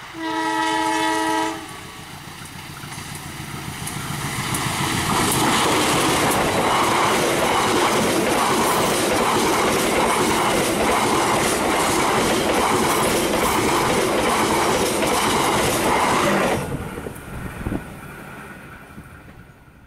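Sembrani express train's diesel locomotive sounds one horn blast about a second and a half long. Then the locomotive and its passenger cars approach and pass at high speed, with a steady, rhythmic clickety-clack of wheels over rail joints. The noise drops off suddenly as the last car goes by and fades away.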